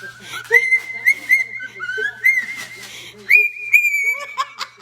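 Pet bird whistling: a run of clear whistled notes at one high pitch, several opening with a quick upward slide, broken by short chirps, then a brief pause and a long held whistle near the end.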